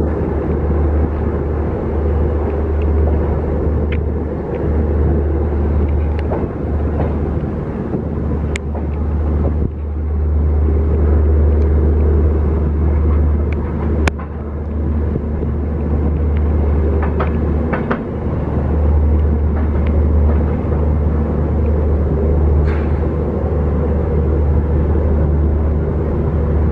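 LHB passenger coach running over the track, heard at its open door: a steady heavy rumble of wheels and running gear, with a few scattered sharp clicks and clanks from the wheels on rail joints and pointwork.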